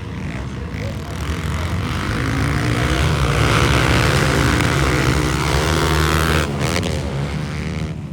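Motocross motorcycle engines running at high revs. The sound builds to its loudest in the middle, then drops off sharply about six and a half seconds in.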